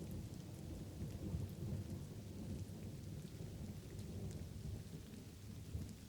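Light rain pattering with a low, rolling rumble of thunder underneath, swelling a little about a second in.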